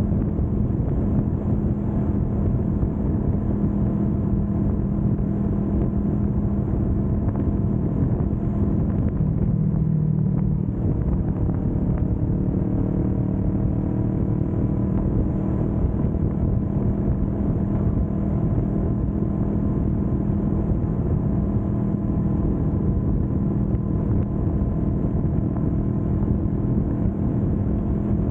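Kawasaki Vulcan S 650's parallel-twin engine running steadily at highway cruising speed, with road noise underneath.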